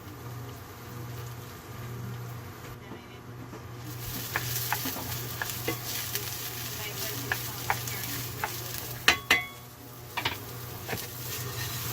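Farro and freshly added shallot sizzling in an oiled pan while being stirred, the utensil clicking against the pan; the sizzle picks up about four seconds in, and a couple of louder ringing clinks come about three-quarters of the way through. A steady low hum runs underneath.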